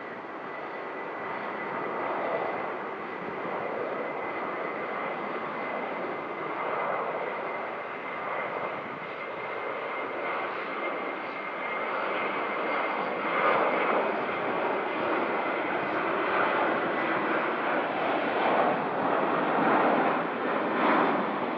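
Airliner engines passing: a steady high whine over a broad rush of engine noise that grows louder and surges through the second half.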